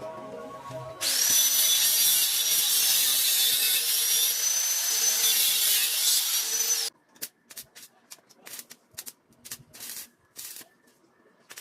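A power tool working on metal runs for about six seconds with a loud, high whine that dips and rises as it bites, then stops suddenly. A run of short, sharp bursts follows.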